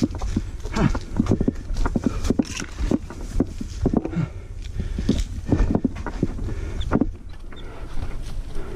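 Mountain bike clattering over a rough trail: tyres thudding on rocks and dirt, with the frame and chain rattling in irregular knocks. A steady low rumble of wind buffets the helmet or bike-mounted action camera's microphone underneath.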